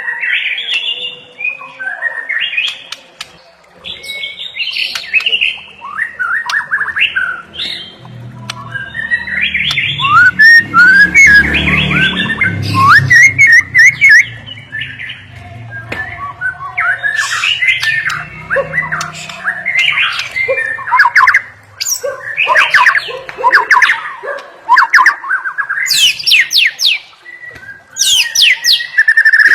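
White-rumped shama (murai batu) singing a long, varied song of fast whistles, chirps and rapid trills, a 'full isian' song packed with phrases borrowed from other birds. A low rumble sits underneath for several seconds in the middle.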